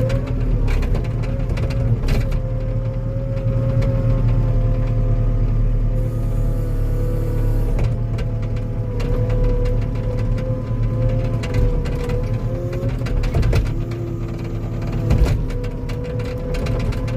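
Diesel engine of a tracked compact machine running steadily under load, with a steady hydraulic whine over the engine drone as it pushes against a tree.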